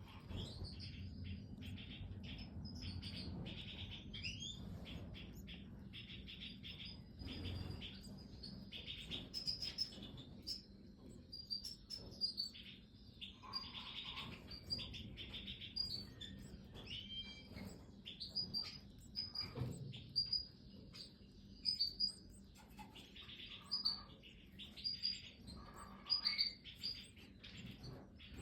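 Goldfinches chirping in an aviary: clusters of rapid, repeated high chirps, which are the begging calls of chicks being fed, with brief high calls over them and a low hum underneath.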